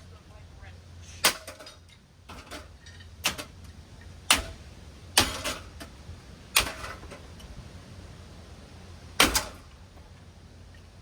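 Hard knocks and smacks, about seven of them, irregularly spaced, as objects strike a Hunter Coastal Breeze Plus ceiling fan being wrecked. A low steady hum sits underneath.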